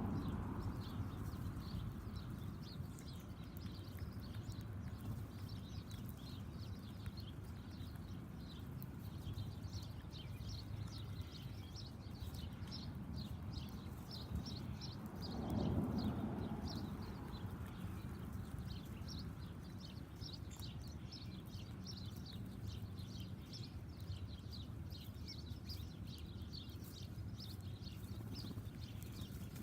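Small backyard birds chirping in quick, repeated short notes, with a low rumble swelling and fading about halfway through.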